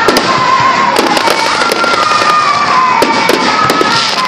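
Fireworks bursting overhead: many sharp pops and crackles in quick succession over a continuous hissing, crackling wash from glittering stars.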